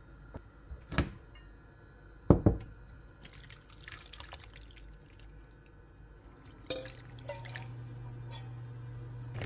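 Kitchen cooking sounds: a few sharp knocks, the loudest about two seconds in, and water dripping or running. A steady low hum starts a little before the end.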